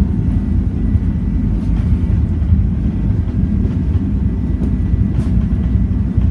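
Cabin noise of a Boeing 737-900ER on its takeoff roll: the CFM56-7B engines at takeoff thrust and the wheels rumbling on the runway make a loud, steady low roar, with a faint thin whine above it.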